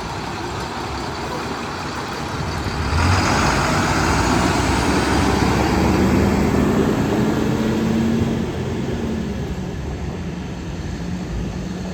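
International 4700 dump truck's engine running, growing louder about three seconds in and holding a steady hum for several seconds before settling back near the end.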